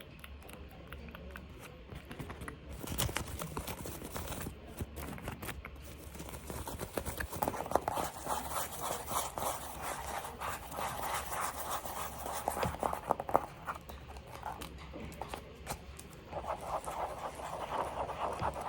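Close-up ASMR scratching and tapping on objects: a dense run of small clicks and scrapes that grows busier and louder about seven seconds in.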